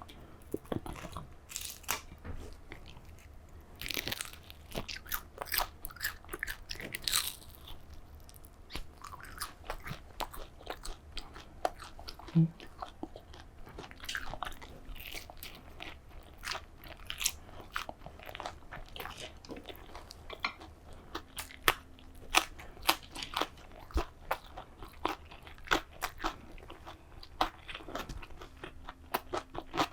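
Close-miked eating: many short crunches and chewing sounds, with bites coming every second or so.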